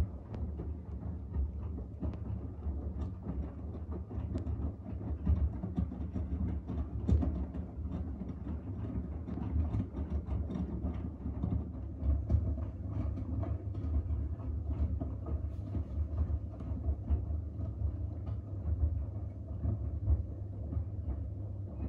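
Front-loading washing machine running, a steady low motor rumble under frequent irregular clicks and knocks from the laundry and drum.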